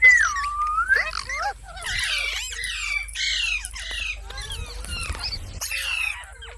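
Pet rose-ringed parakeet (Indian ringneck) calling: a clear whistle that dips and rises in pitch, then a string of rapid, harsh squawks and chatter.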